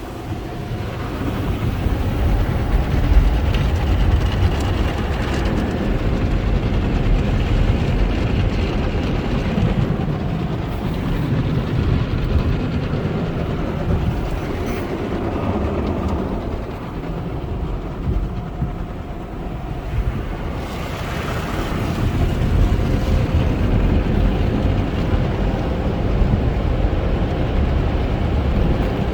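Sonny's conveyor tunnel car wash equipment working over a car, heard from inside the cabin: a steady, heavy low rumble that swells in the first few seconds and eases briefly around two-thirds of the way through.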